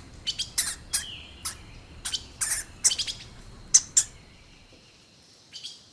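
Hamster squeaking: a string of short, high-pitched squeaks and chirps, one sliding down in pitch about a second in. The squeaks thin out after about four seconds.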